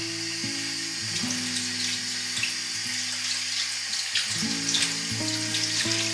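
Water running steadily and splashing, over background music of plucked guitar-like notes.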